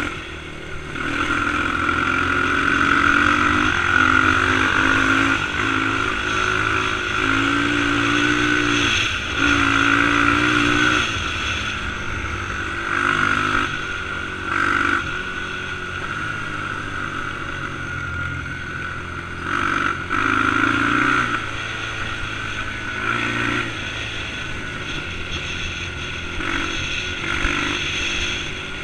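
Motorcycle engine running while riding, the revs rising and falling repeatedly.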